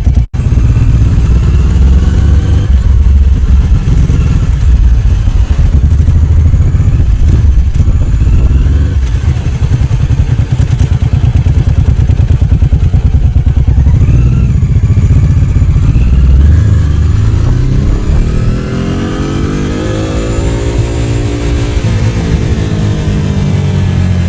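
Ducati 749's 90-degree L-twin engine running loud as the bike is ridden, its low pulsing beat steady for most of the stretch; near the end the engine pitch rises and then falls again.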